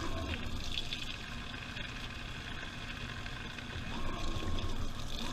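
Washing machine running its cycle, water churning and sloshing in the drum with a steady low rumble from the machine, heard from inside the drum.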